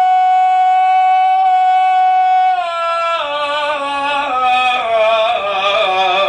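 Male radood singing a Shia latmiyya in melismatic style. He holds one long high note steady for about two and a half seconds, then drops into a wavering, ornamented run that steps down in pitch.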